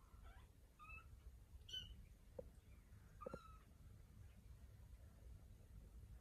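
Kittens mewing: about four short, faint, high-pitched mews in the first half, spaced unevenly.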